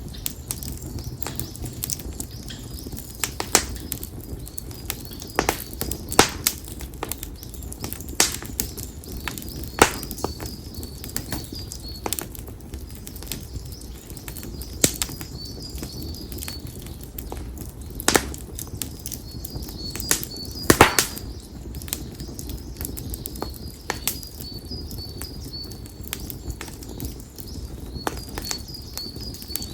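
Konara oak firewood crackling and popping as it burns: sharp, irregular pops, the loudest a little past two-thirds of the way through, over a low steady rush of flame. A bird calls in short, high chirps in small repeated clusters.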